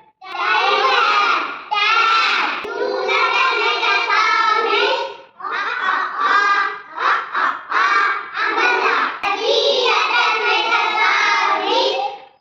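Young children singing a phonics song, voices carrying on in phrases with brief breaks.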